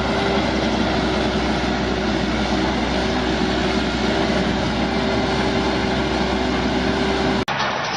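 A large engine running steadily at constant speed, with a steady whine over the noise.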